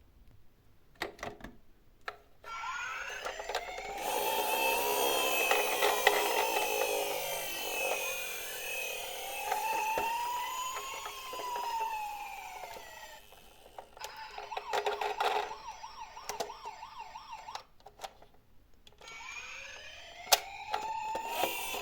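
An emergency-vehicle siren wailing in slow rising-and-falling sweeps, switching to a fast warble partway through, then starting to wail again near the end. Sharp clicks and taps are scattered through it.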